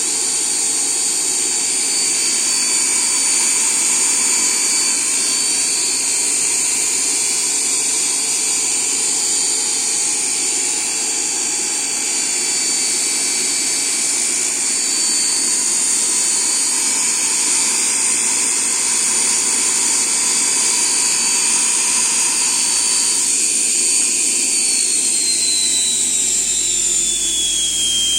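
ME1004 brushed permanent-magnet DC motor running steadily on 48 V under a Curtis speed controller, with a high-pitched whine. About 23 s in the sound thins, and near the end the whine's pitch slides down and then back up as the speed changes.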